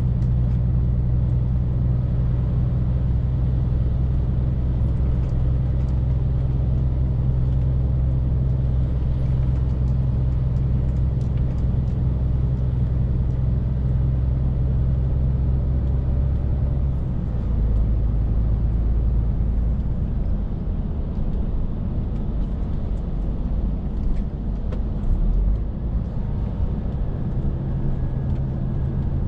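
Scania R450 lorry's straight-six diesel running steadily on the road, with tyre and road noise. About 17 seconds in, the steady engine note changes and drops away, then comes back near the end.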